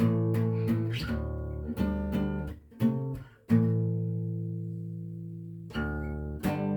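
Guitar music: strummed chords, with one chord left ringing and fading for about two seconds in the middle before the strumming starts again.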